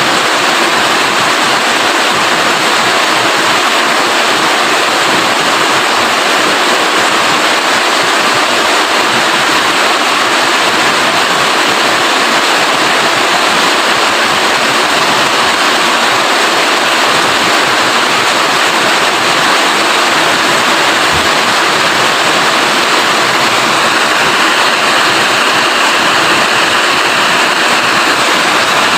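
Rain falling steadily, a loud, even hiss that never lets up.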